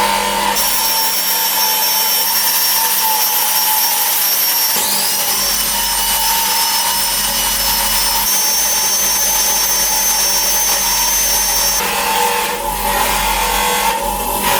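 Power tool running steadily, a high whine over a rough hiss. The whine rises in pitch about five seconds in and changes again near the end.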